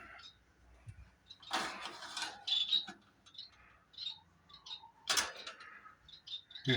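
Small cage birds chirping with short, high peeps, while something rattles and rustles loudly twice: first about a second and a half in, then again about five seconds in.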